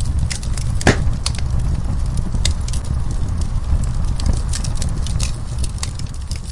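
Wood fire crackling in a fireplace: irregular sharp pops and snaps over a steady low rumble of the burning fire, with one louder pop about a second in.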